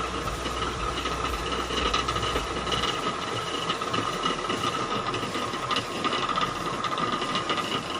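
Gharat, a traditional water-powered flour mill, running steadily as its millstone grinds grain, a continuous busy mechanical rattle with a constant ringing tone in it.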